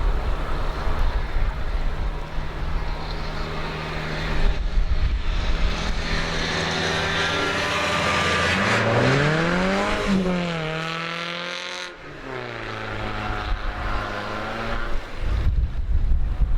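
Car engine running steadily with road and wind hiss, then revving up for about a second and a half and dropping back before settling again.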